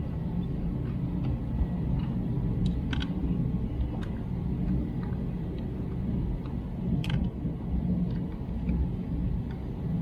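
Steady low rumble with a few light, sharp clicks and taps scattered through it.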